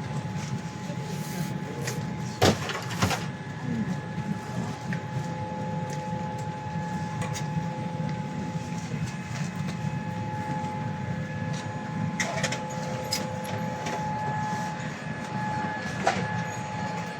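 Boeing 787-8 airliner cabin hum: steady low rush of the cabin air system with faint steady whining tones over it. A few sharp knocks cut through, two close together about two and a half and three seconds in, and more around twelve and sixteen seconds.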